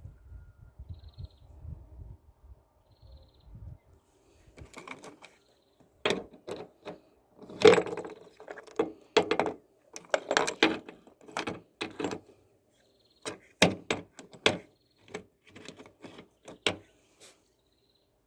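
A series of irregular sharp knocks and clicks, loudest and densest from about six seconds in to near the end, over a faint steady hum.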